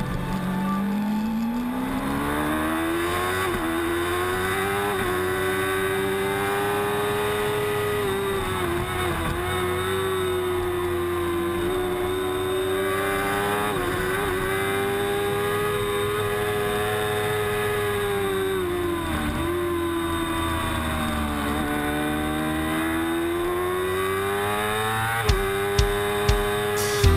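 Yamaha YZF-R6's 600cc inline-four engine at high revs, heard from onboard during a road-race lap. The pitch climbs and holds high with brief dips at each upshift, drops as the bike slows for corners, then climbs again. A few sharp thumps sound near the end.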